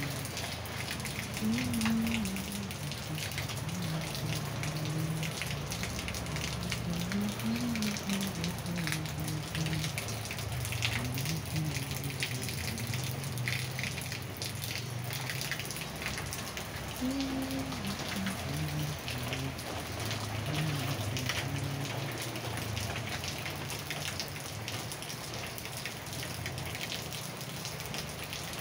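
Steady rain falling on wet paving and leaves, with many single drops heard among the even hiss of the shower.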